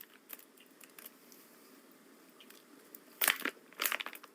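Two short rustles of a plastic snack packet being handled, about three and four seconds in, with a quiet room in between.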